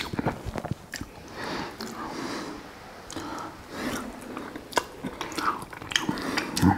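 Eating steamed gilt-head bream close to the microphone: wet chewing and lip smacks with scattered small clicks as the fish is pulled apart by hand.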